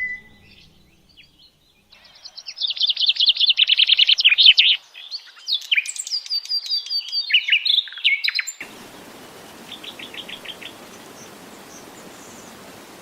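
Songbird singing a fast, varied song of rapid trills and chirps, starting after about two seconds of near quiet. About two-thirds of the way through it changes abruptly to fainter chirps over a steady hiss.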